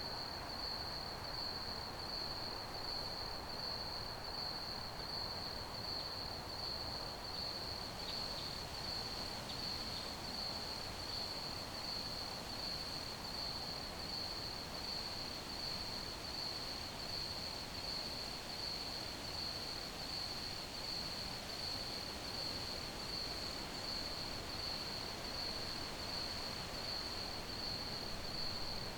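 Crickets chirping in a steady, rapid pulsing trill at one high pitch, over a soft even hiss of background noise.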